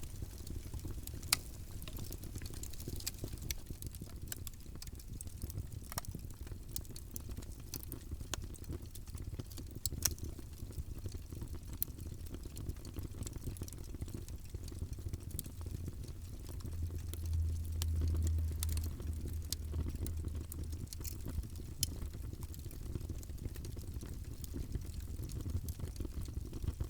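Wood fire crackling in a fireplace: scattered sharp pops and snaps over a low steady rumble of the flames. One louder pop comes about a second in, and the rumble swells briefly about two-thirds of the way through.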